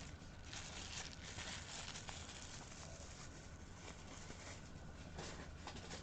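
Faint rustling of booster-pack packaging being handled, with a few light clicks.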